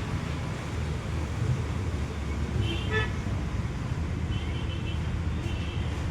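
Steady low vehicle rumble, with a short horn toot about three seconds in and fainter high tones later.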